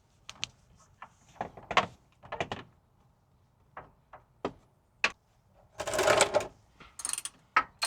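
Irregular clicks and knocks of a metal wrench working on a truck's radiator drain plug, with two short scraping rustles near the end.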